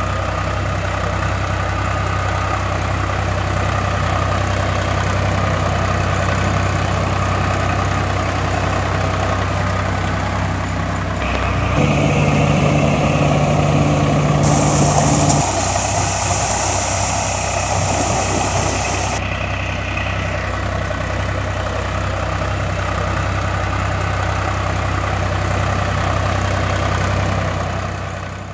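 Heavy vehicle engine running steadily. Its sound changes abruptly about 12 seconds in and again about 16 seconds in, with a hiss laid over it for a few seconds around the middle.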